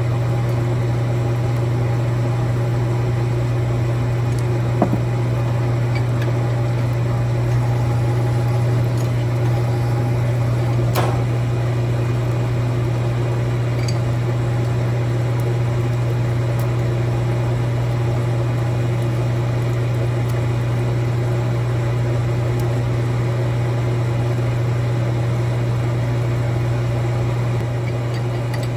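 A steady, unchanging electric machine hum with a low drone, broken only by two faint clicks, about five and eleven seconds in.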